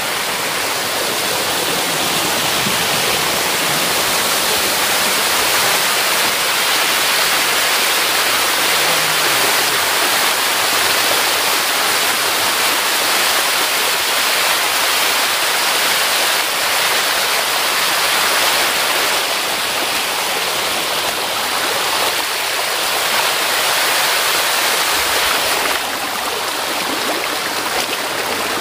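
Rushing water of a forest stream, a loud, steady wash of sound close by.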